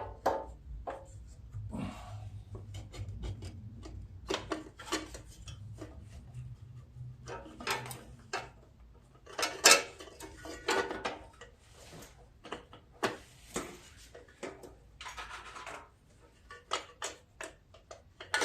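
Metal engine parts and small hardware being handled and fitted back onto a riding mower's engine: irregular clicks, clinks and scrapes, with one louder knock about ten seconds in.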